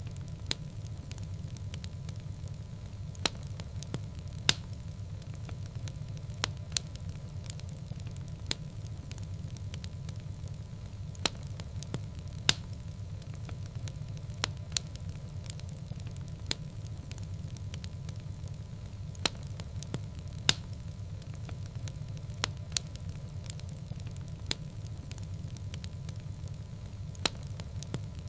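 Wood fire burning in a fireplace: a steady low rumble with sharp crackles and pops at irregular intervals, usually a second or a few seconds apart.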